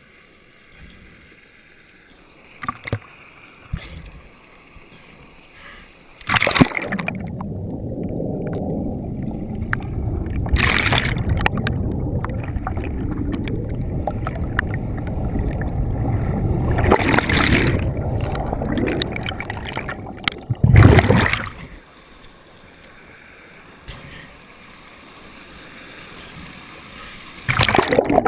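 Rushing waterfall water heard through a GoPro's waterproof housing: a heavy, muffled low rush that comes and goes. A few sharp splashes sit inside it, and quieter stretches come between the loud spells.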